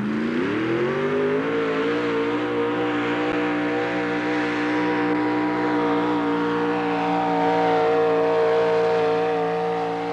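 Pulling truck's engine under full load dragging a weight sled. The revs dip at the start, climb over the first second or so, then hold high and steady.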